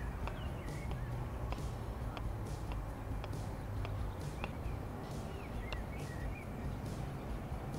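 Outdoor ambience on a golf green: a steady low background rumble with faint, scattered bird chirps.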